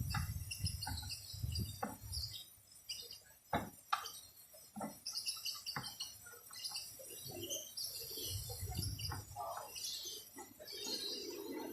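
Small birds chirping over and over, with a couple of sharp knocks about three and a half seconds in and low rumbling handling noise near the start and again later.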